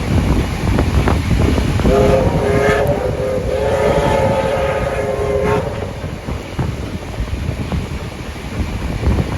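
Steam whistle of locomotive 3526 sounding two blasts, a short one and then a longer one, each at a steady pitch, heard from the train over the steady rumble of the moving train and wind.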